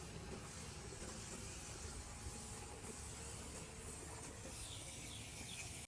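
Faint steady outdoor hiss with a low rumble, and a few faint bird chirps near the end.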